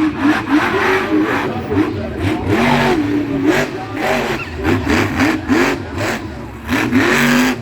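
Monster truck engine revving hard, its pitch rising and falling over and over, with sharp bangs among the revs.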